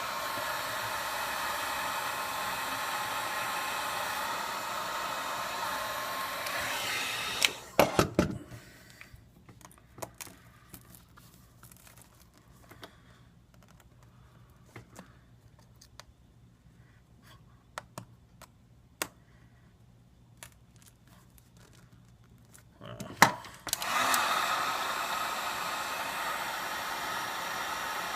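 Hot air gun blowing steadily, heating the glue under an iPad 2's glass, switched off after about seven seconds with a few sharp knocks. Then quieter, with scattered small clicks and taps, until the hot air gun starts blowing again near the end.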